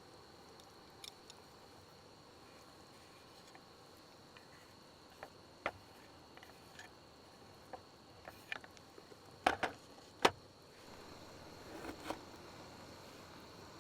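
Steady high insect drone with scattered light clicks and knocks of objects being handled, the loudest a quick cluster of knocks about nine and a half to ten seconds in.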